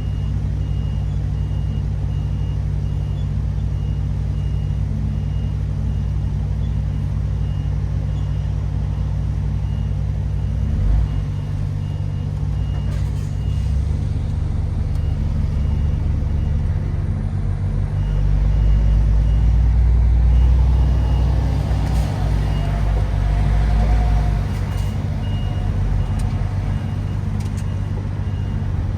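MAN TGX 18.510 truck's six-cylinder diesel engine running steadily, its low rumble swelling for several seconds in the second half. A faint high beep repeats evenly through much of it.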